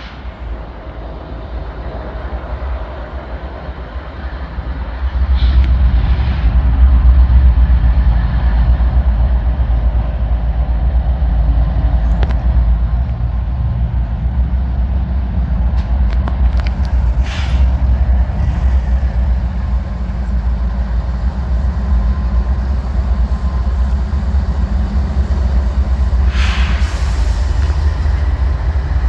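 Diesel locomotives running past with a steady low rumble that swells about five seconds in, with a few short sharp clicks over it.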